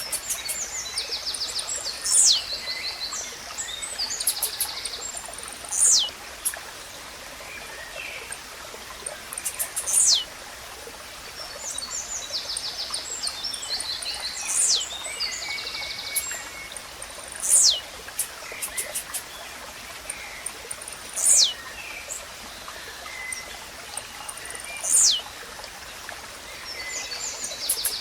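Blue-black grassquit singing: a short, sharp note that sweeps steeply down in pitch, repeated about every three to four seconds, seven times. Other small birds chatter faintly between the songs over a steady rush of flowing water.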